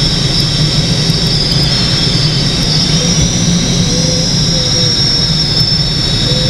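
A light aircraft's engine running steadily in flight, heard from the pilot's seat: a continuous drone with a high whine that drifts slightly in pitch.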